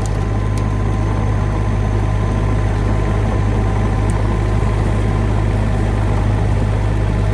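Heavy equipment's diesel engine running steadily with a deep, even hum.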